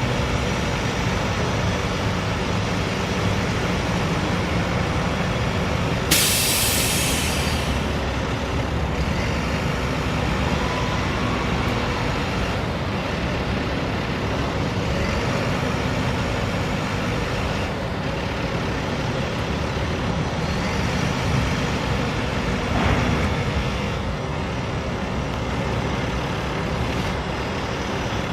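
International DT466 diesel engine running steadily. About six seconds in, a sharp hiss of released compressed air lasts about a second and a half.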